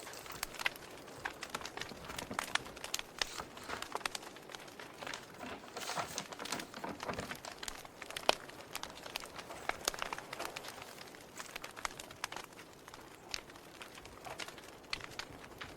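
Wood fire crackling, with irregular sharp pops and snaps over a soft steady hiss of burning.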